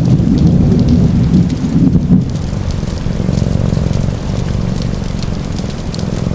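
Steady rain with a deep low rumble that is heavier for the first two seconds and then settles, and small scattered crackles from a fireplace fire.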